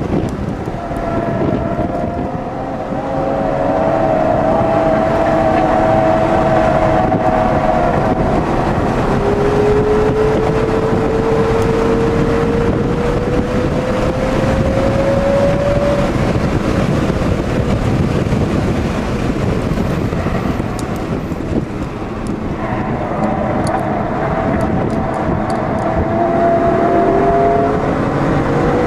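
Audi S8 (D2) 4.2-litre V8 heard from inside the cabin at track speed, with steady road and wind noise. The engine pitch climbs as it pulls through the revs, drops sharply about eight seconds in as it shifts up, then climbs again. The engine note fades for several seconds past the middle and picks up, rising, near the end.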